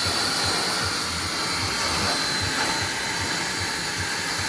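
A powerful cleaning machine running steadily with a loud rushing hiss and a low pulsing throb, about three or four beats a second.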